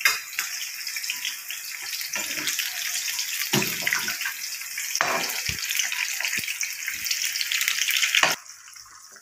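Chicken pieces deep-frying in hot oil in a kadai: a steady sizzle dense with crackles, with a few light knocks of a metal skimmer against the pan. The sizzle drops away abruptly about eight seconds in.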